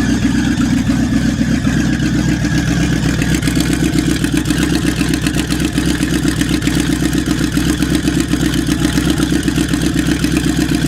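1973 Dodge W200 pickup's engine idling steadily with an even, rapid pulse, running freshly after a hard cold start.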